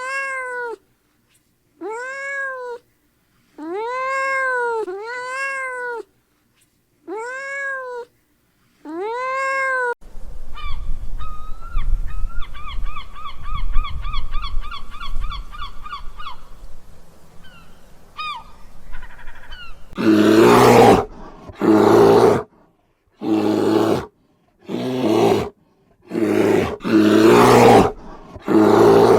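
Animal calls from different animals in succession. First come six separate rising-and-falling pitched calls. Then a rapid trilling call over background noise about ten seconds in, and loud, harsh calls in quick succession in the last third.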